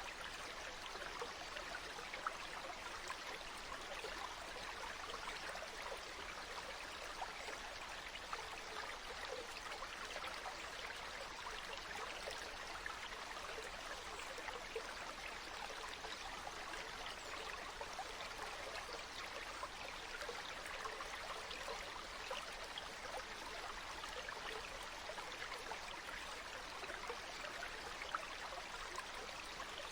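Flowing water: a small stream trickling and babbling steadily, with fine scattered splashes.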